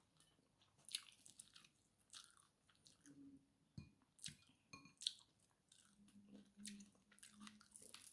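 Faint close-up eating sounds: a person chewing fried fish and rice, with sharp crisp crackles scattered throughout.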